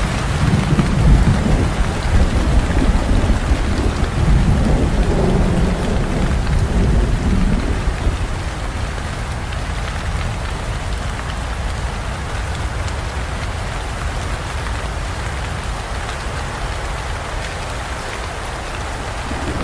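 Steady rain with a long roll of thunder rumbling low through the first few seconds and dying away about eight seconds in, leaving the rain alone.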